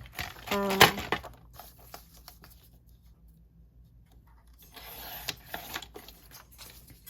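Sheets of printed paper being handled and slid across a work surface: soft rustling and scraping, loudest for about a second and a half some five seconds in.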